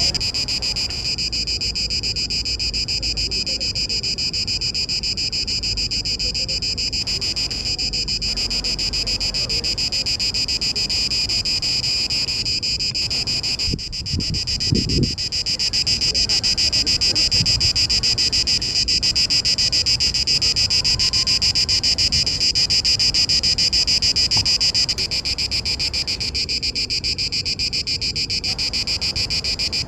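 Male Mediterranean cicada (Cicada orni) singing a continuous, shrill buzz from the sound organs on its abdomen. This is the male's mating call to attract females.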